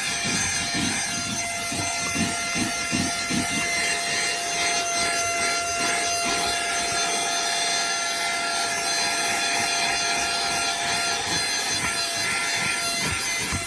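Small cordless Temu HL-107 handheld car vacuum running with a steady whine and a rush of air. For the first few seconds its nozzle scrubs back and forth over a car floor mat, about three strokes a second.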